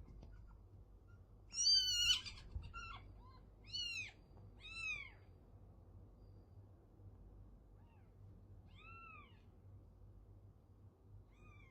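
A cat meowing repeatedly in short calls that rise and fall in pitch: a loud cluster of meows about two seconds in, two more around four and five seconds, and a fainter one near nine seconds.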